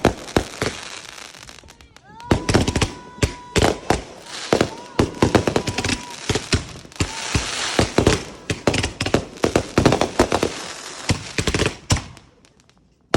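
Fireworks going off: a rapid, irregular string of sharp bangs and crackles, with a steady high whistle held twice a few seconds in. The bangs stop for a short lull near the end.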